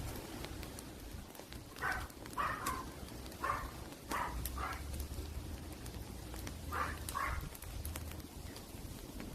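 Outdoor fire crackling with faint scattered pops, while an animal calls in short groups: two calls, then three, then two more.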